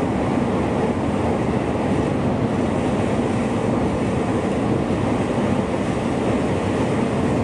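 Steady running noise of an electric train at speed, heard from inside the carriage.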